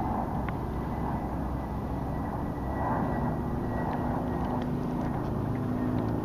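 Steady low rumble of distant engine noise, with a few light clicks.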